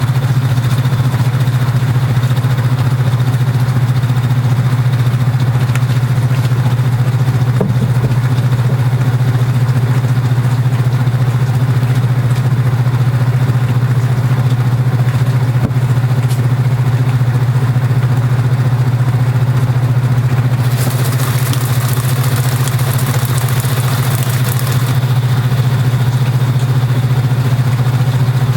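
Kenmore belt-drive portable washing machine running mid-cycle, a steady low hum. For about four seconds near the end a hissing rush joins in.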